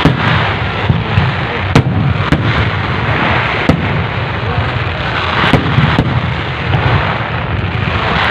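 Fireworks show: a rapid, irregular string of loud bangs and crackles over a continuous rumble, with a crowd murmuring beneath.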